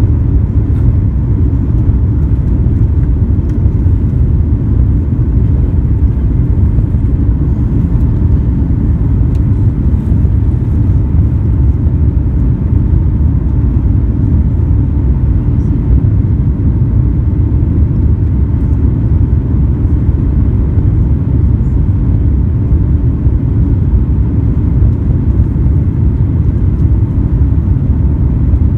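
Airbus A350-900 cabin noise heard from an economy seat: the steady low rumble of the Rolls-Royce Trent XWB engines and airflow, with a faint steady hum, unchanging throughout.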